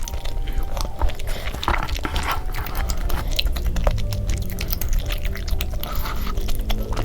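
Close-miked eating sounds: chewing and biting, with many short wet clicks from the mouth. Light background music plays underneath.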